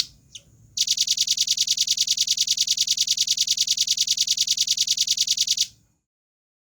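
Velvet-fronted nuthatch calling: two short sharp notes, then a fast, even trill of about ten high notes a second lasting nearly five seconds, cutting off abruptly.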